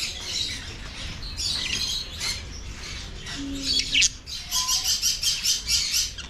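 Small caged parrots chirping and squawking, with a fast run of sharp chattering calls over the last couple of seconds.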